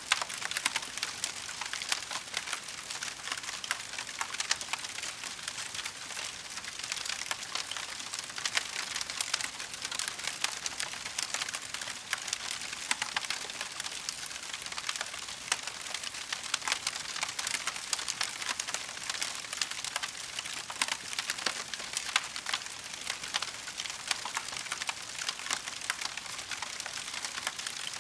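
Wood fire crackling: a dense, steady stream of small pops and snaps from burning logs.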